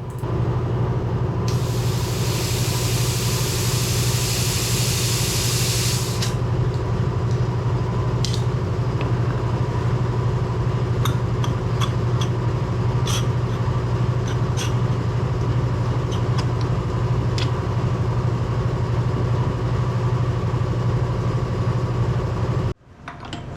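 A tractor engine running steadily while it supplies hydraulic pressure to cycle the cylinder. A loud hiss lasts about four seconds starting a second or two in, then a few light clicks, and the sound cuts off suddenly near the end.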